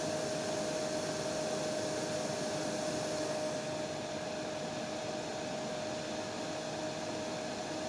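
Hair dryer running steadily: rushing air with a steady motor whine. The highest part of the hiss eases slightly about three and a half seconds in.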